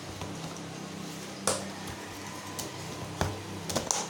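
Samsung P1271 washing machine humming steadily as it draws in water at the start of the wash. A few short clicks and rustles, about a second and a half in and again near the end, come from a pack of Tide detergent capsules being handled.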